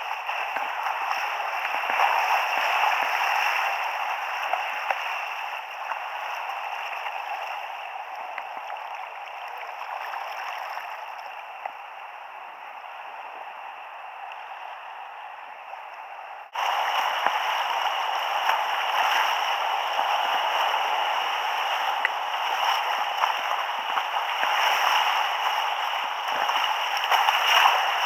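Rushing river water through a whitewater rapid, a steady noisy wash; the level jumps suddenly about sixteen seconds in.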